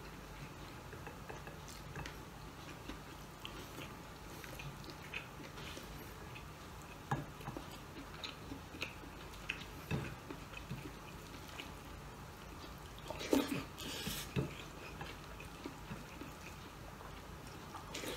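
A man eating by hand and chewing, with faint mouth sounds and scattered soft clicks. A few louder short mouth noises come about seven, ten and thirteen to fourteen seconds in.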